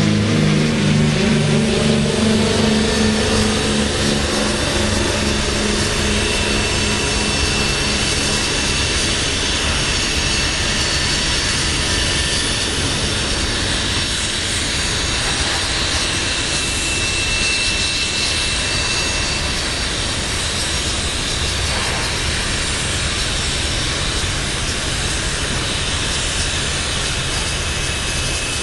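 Freight train cars rolling past: a steady rumble and rattle of steel wheels on rail, with a faint high wheel squeal through the middle stretch. Over the first few seconds a droning engine note falls in pitch and fades out.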